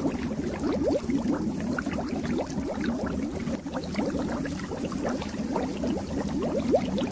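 Fish tank water bubbling steadily, a dense stream of small bubbles popping and gurgling.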